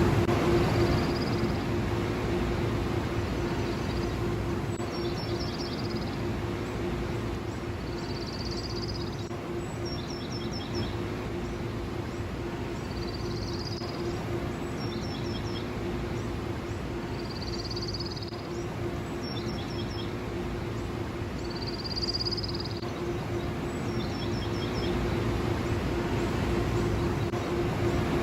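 Car wash machinery running with a steady drone and a constant hum. Short high chirping calls repeat about every four seconds above it.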